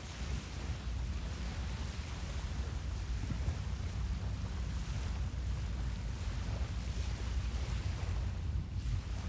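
Wind buffeting a phone's microphone, giving a steady, fluctuating low rumble over a faint hiss.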